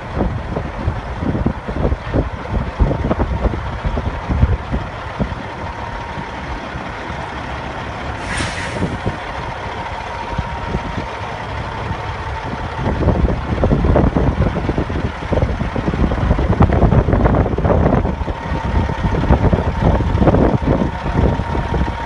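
2007 Peterbilt 379 semi truck's diesel engine running with a low, uneven rumble. A short hiss comes about eight seconds in, and the engine grows louder about thirteen seconds in.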